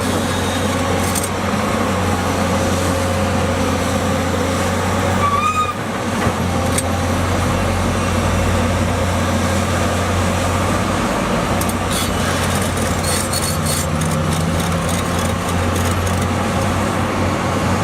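Diesel engine of a heavy construction excavator running steadily with a constant low hum. There is a brief high tone about five seconds in, and a run of light clicks and clatter in the second half.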